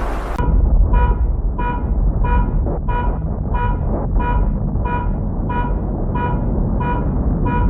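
An electronic alarm beeping steadily, about one and a half beeps a second, over a loud low rumble; the beeping starts about half a second in.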